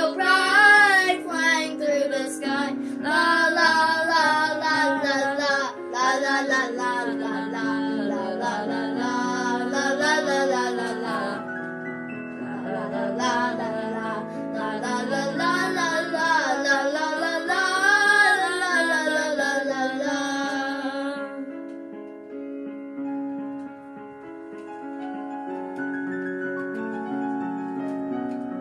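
Gentle song: a female voice sings a melody over piano accompaniment, then stops about three quarters of the way through, leaving the piano playing on alone more quietly.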